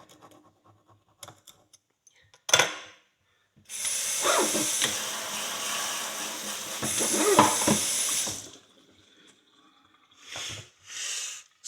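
Water running from a tap over a horseshoe being rinsed, a steady rush for about five seconds, after a single knock. Two short rushes of noise follow near the end.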